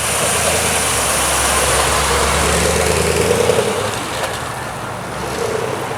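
Car engine running, with a steady low hum that drops away a little under four seconds in.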